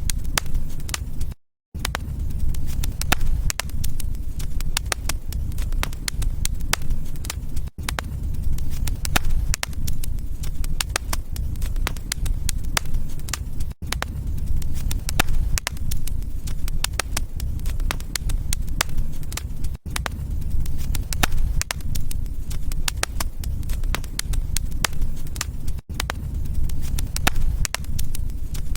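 Wood fire crackling and popping in a fireplace, dense sharp crackles over a steady low rumble of the flames. Short drops in the sound come about every six seconds, the first a near-silent gap of about a third of a second.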